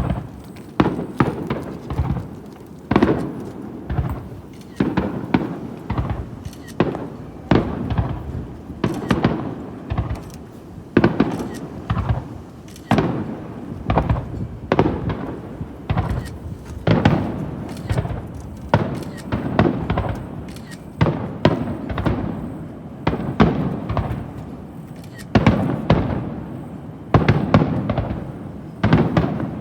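Starmine fireworks barrage: aerial shells bursting in quick succession, a sharp boom about every second or two, each followed by a rolling echo, with smaller cracks in between.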